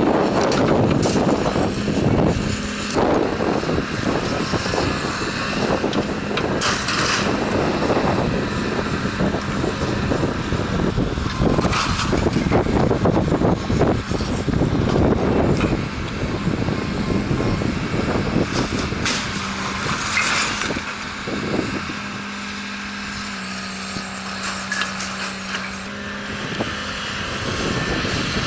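Heavy demolition machinery running with a steady engine hum, amid crashing and clattering of falling debris, with several louder crashes.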